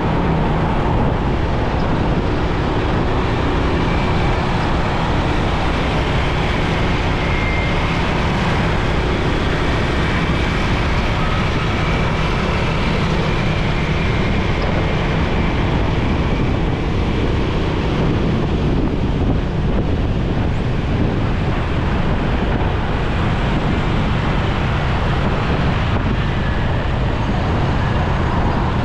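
Wind rushing over the microphone with the motorcycle and road traffic beneath it, as a motorcycle rides steadily through traffic.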